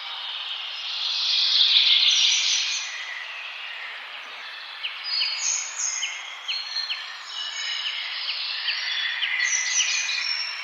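Several birds chirping and singing at once over a steady background hiss. There is a louder, denser stretch about one to three seconds in, and later a run of short chirps repeated about twice a second.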